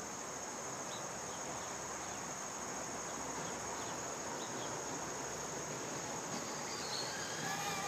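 Insects chirring steadily in a high, even band over a background hiss. Near the end a steady hum made of several tones begins.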